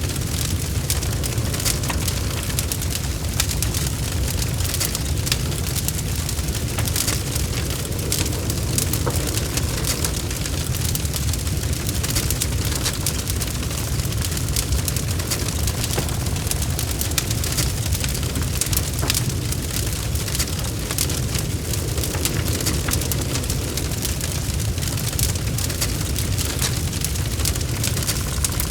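Wood fire burning in a fireplace, logs crackling and popping in a dense, irregular run of snaps over a steady low rumble of the flames.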